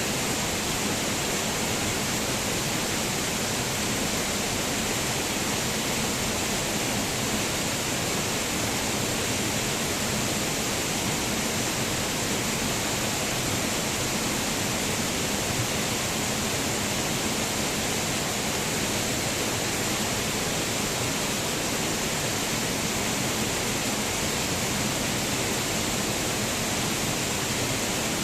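Waterfall: water falling and splashing in a steady, unbroken rushing hiss.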